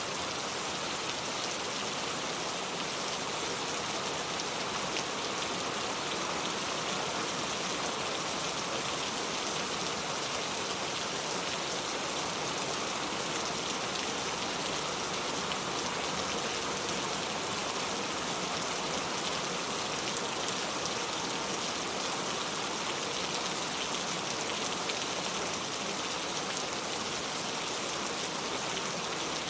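Steady rain falling: an even hiss of many drops that does not change, with no thunder.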